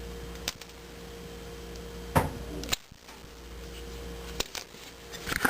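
Wire cutters snipping through the furnace pressure switch's rubber tubing: a sharp snap about two seconds in, with a few smaller clicks of tool handling around it, over a steady low hum.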